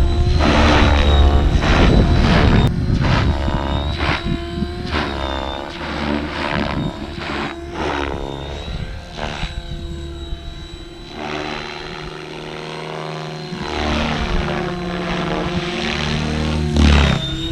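Logo 600 radio-controlled helicopter in flight: the rotor blades and motor whine rise and fall in pitch and loudness as it swoops past and manoeuvres, with a steady high whine throughout and a few sharp blade pops.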